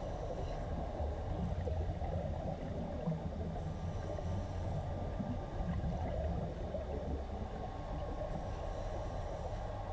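Muffled underwater sound of a dive tank: a steady low rumble with faint gurgling.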